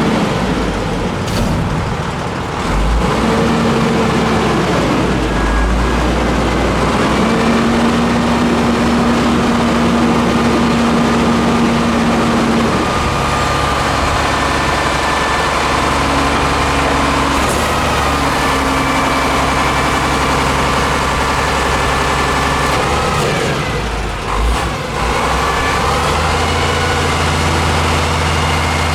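Peterbilt 310 front-load garbage truck's diesel engine running, its pitch stepping up and down several times, with a few short sharp sounds along the way.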